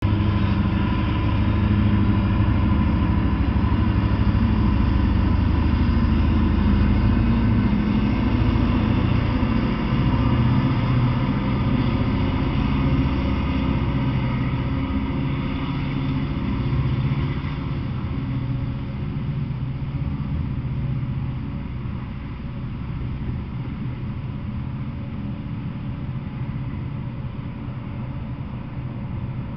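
Freight train passing: Norfolk Southern diesel locomotives give a loud, low rumble for the first dozen seconds or so. Double-stack intermodal well cars then roll by, and the rumble eases off.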